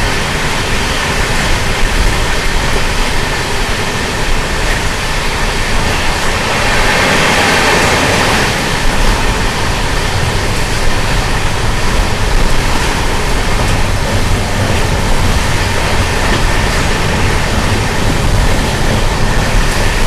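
Passenger express train running at speed, heard from inside the coach with the windows shut: a steady, loud rumble and rattle of wheels on the rails, with a brief swell of hiss about seven seconds in.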